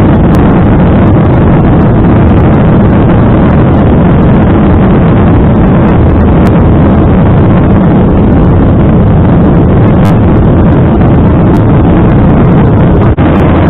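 Loud, steady airliner cabin noise in flight: jet engines and rushing air, with a low steady hum underneath.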